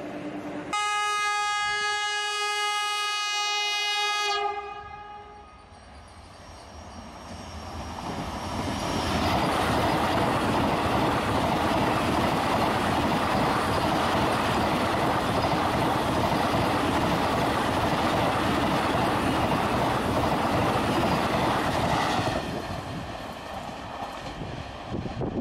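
Vande Bharat electric train's horn sounding one long steady blast of about four seconds. Then the noise of the train set running past close by builds over a few seconds, holds steady for about twelve seconds, and drops away near the end.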